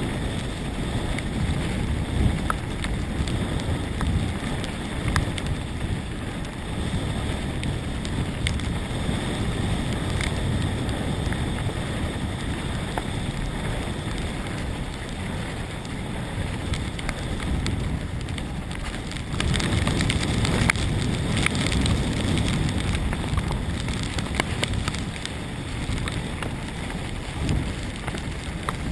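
Mountain bike descending a rough trail at speed: wind rushing over the microphone with the rumble and rattle of tyres and frame over rough ground, getting louder about 19 seconds in.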